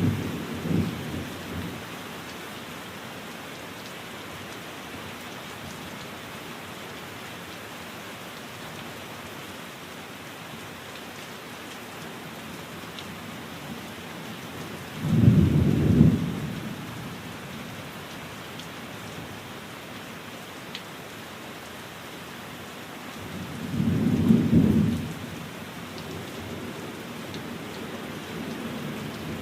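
Steady rain with rolls of thunder: one dying away in the first second or two, another about halfway through, and a third near the end, each a brief low rumble over the rain.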